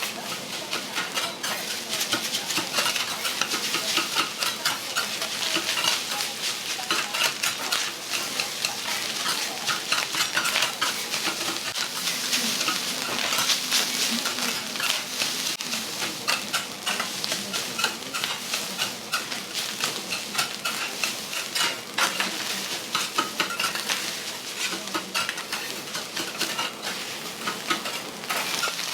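Metal spatulas clacking and scraping rapidly on a hot iron teppan griddle as food sizzles and fries.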